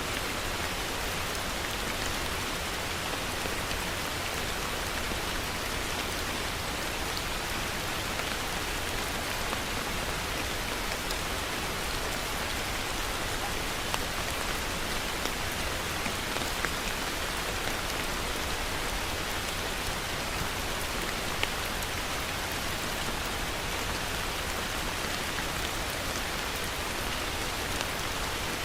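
Steady heavy rain: a dense, even hiss of falling rain with many small drop ticks scattered through it.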